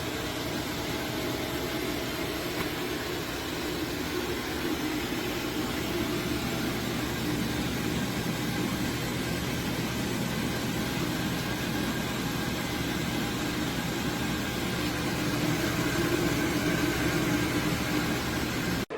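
AC Infinity Cloudline Pro S6 150 mm inline duct fan running unducted: a steady rush of air with a low motor hum. The owner finds it loud.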